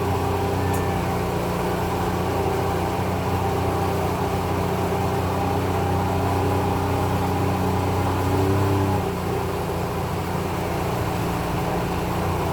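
An engine running steadily at constant speed, a low droning hum; a few of its tones drop away about nine seconds in while the hum carries on.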